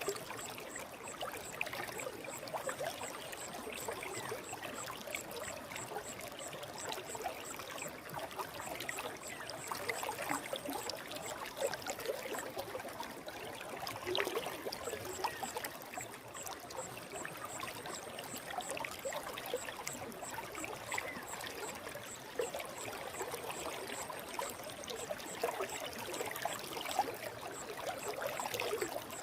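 Forest stream flowing steadily: a continuous rush of running water with small trickling splashes.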